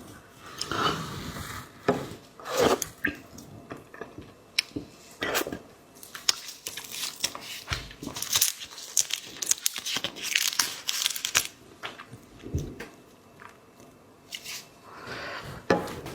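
Seafood being handled and eaten close to the microphone: irregular crackling and tearing, with bites and chewing, the crackle at its densest in the middle.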